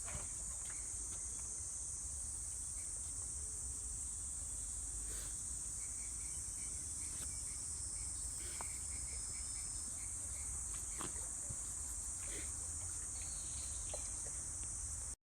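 Steady high-pitched insect chorus, one continuous shrill drone, with a few faint clicks underneath; it cuts off suddenly near the end.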